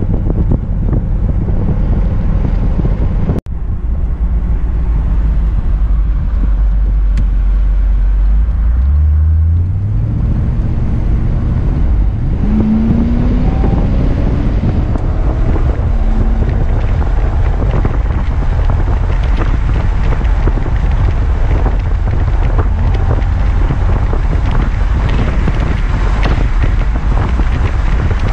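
1978 Chevrolet Corvette's V8 heard from inside the cabin, running low at first, then revving up as the car accelerates about ten seconds in, and giving way to steady road and wind noise at highway speed.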